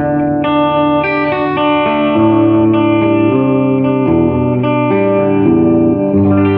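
Electric guitar played through a 1968 Fender Super Reverb tube amp, a run of sustained notes and chords that change every half second to a second.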